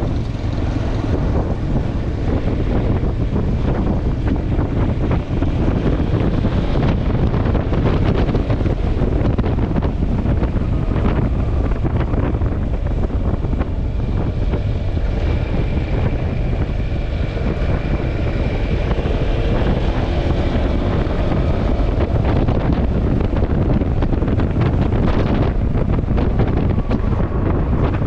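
Wind rushing over the microphone of a Yamaha XMAX scooter while it is under way, with the scooter's engine and road noise running steadily underneath.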